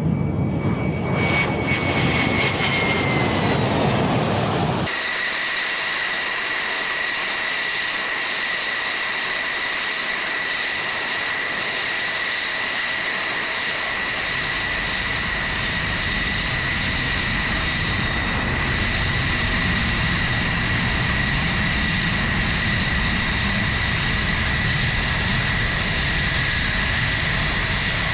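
F-16 fighter jet's turbofan engine: a loud rumble with a whine that drops in pitch, then an abrupt change about five seconds in to a steady high-pitched jet whine, with the low rumble building back under it partway through.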